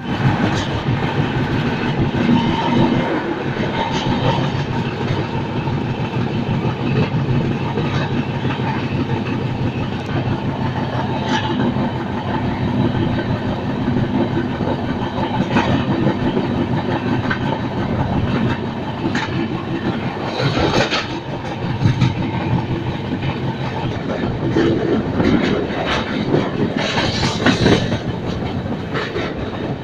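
Passenger express train running on the rails: a steady rumble with wheels clicking over rail joints. Twice in the last third there is a brief louder hiss.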